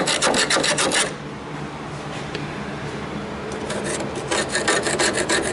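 Rapid scraping strokes on rusty sheet steel, in two quick bouts: one at the start lasting about a second, and another starting a little past halfway.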